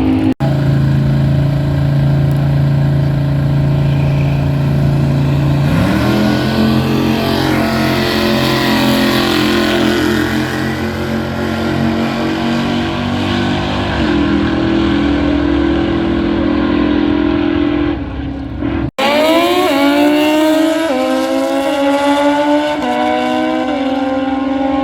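Drag racing engines at the strip, loud throughout. An engine holds a steady note, then rises in pitch in steps about 6 and 14 seconds in. After an abrupt cut about two-thirds of the way in, an engine climbs in pitch with several quick steps, like a vehicle accelerating through gears.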